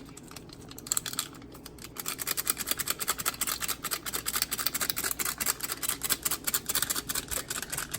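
Ramen seasoning packet being shaken and tapped empty: a fast, crackly run of packet rustles and ticks starting about two seconds in.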